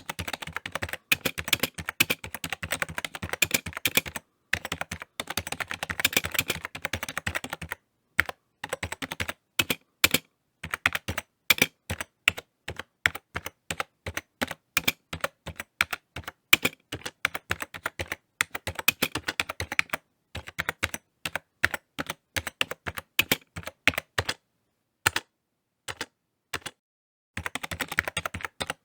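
Typing on a computer keyboard: a fast run of keystrokes, then slower, scattered key presses with short pauses, and a quick run of typing again near the end.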